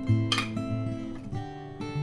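Background music: an acoustic guitar playing a slow run of plucked notes.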